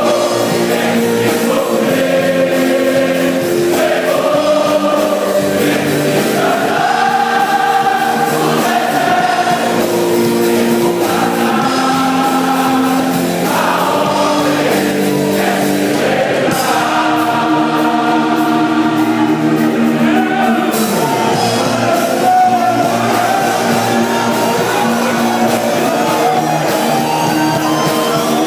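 Choir singing gospel music with instrumental accompaniment, in long held notes that change every second or two.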